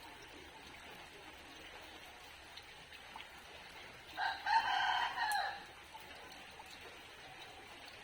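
A rooster crows once, for about a second and a half, over the steady patter of falling rain.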